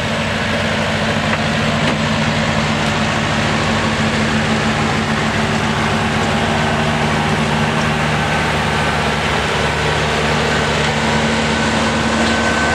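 Ford 861 diesel tractor engine running at a steady speed, a constant low note without revving.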